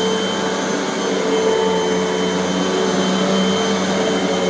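Hoover bagless upright vacuum cleaner running steadily, a constant motor whine over a rushing hum.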